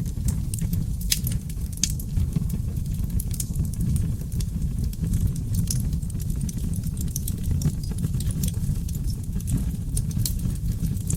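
Oak-log wood fire burning in a fireplace: a steady low rumble of flames with many small sharp crackles and pops scattered irregularly through it.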